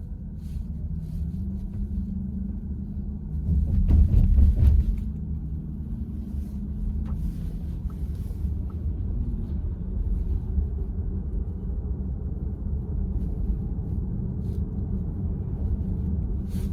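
Road and tyre rumble inside the cabin of a VW ID.4 electric car while driving, swelling louder for about a second around four seconds in.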